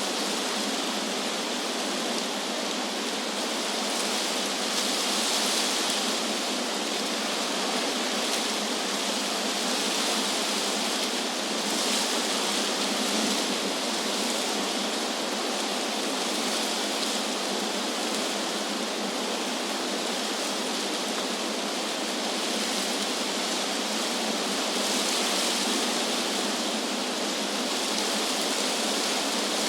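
Wind blowing through tree leaves: a steady rushing hiss that swells a few times as gusts pass.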